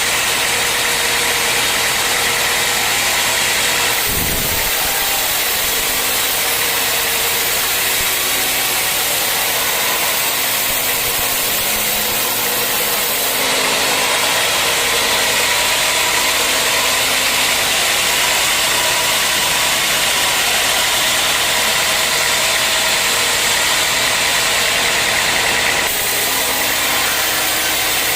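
Sawmill running steadily, a constant machine and blade noise that shifts in tone about four seconds in, again near the middle, and near the end.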